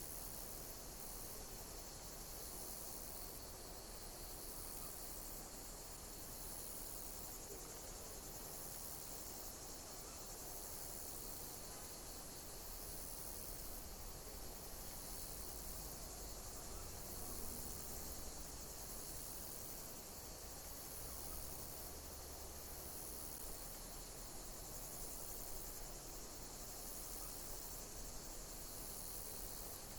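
Insects chirping in a steady high-pitched chorus, with a pulse of calls repeating about every two seconds.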